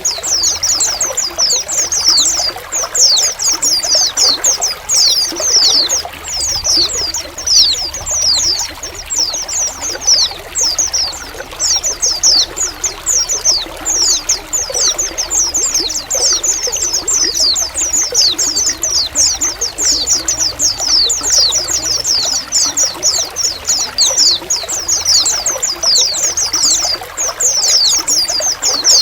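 A flock of white-eyes (pleci) chattering together, with many short, high chirps sliding downward in quick, overlapping succession. Water trickles steadily underneath.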